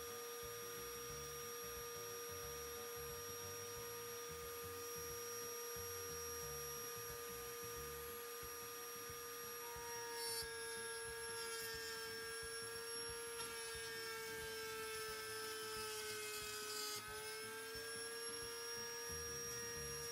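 Old table-mounted Bosch POP router running with a steady high whine. From about ten seconds in it cuts the wooden workpiece: the pitch sags slightly under load, with short bursts of cutting noise, and dips most near the end before picking up again.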